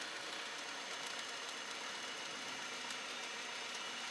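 Steady cabin noise of a Cessna 172 Skyhawk rolling off the runway with its engine at low power, heard as a faint even hiss with a low drone underneath.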